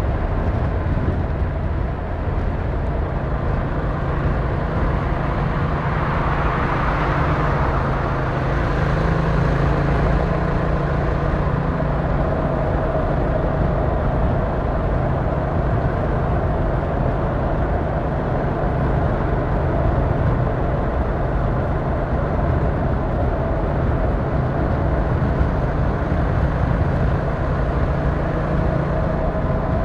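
Yamaha MT-07's 689cc parallel-twin engine running at a steady cruise, heard from the rider's position over wind and road noise. A brief swell of rushing noise comes about six seconds in.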